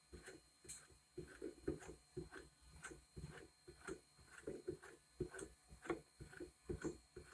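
Faint, irregular soft knocks and clicks, a few a second, from hand-washing a vinyl record in a Vinyl Styl record washer.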